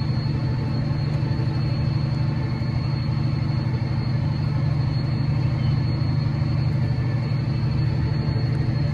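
John Deere 7330R tractor's six-cylinder diesel running steadily under load while pulling a plough, heard from inside the cab: an even low drone with a thin, steady high whine above it.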